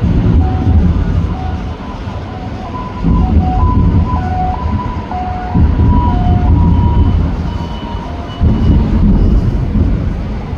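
Fireworks shells bursting overhead, each boom followed by a long low rumble. There are four loud bursts, roughly every three seconds.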